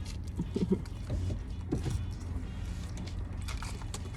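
A steady low rumble, with a few short soft creaks and handling sounds over it.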